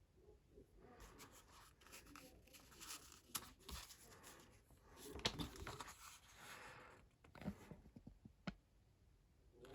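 Faint rustling and scraping of objects being handled by hand, with a few sharp light clicks in the second half.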